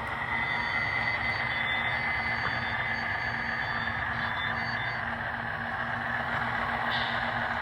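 Model diesel locomotive's onboard sound system playing a diesel engine running steadily, mixed with the whir of the smoke-unit fans in the locomotive and the steam generator cars, with a steady low hum.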